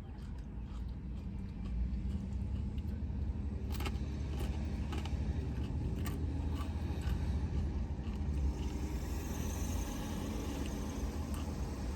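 Steady low rumble of a car's running engine heard from inside the cabin, with faint scattered clicks and a brief knock about four seconds in.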